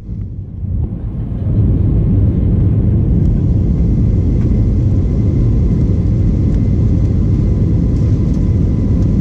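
Steady low rumble of an Airbus A320-232 in flight, heard from inside the cabin: engine and airflow noise with faint steady tones above it. The sound drops out sharply at the start and builds back up over about a second and a half.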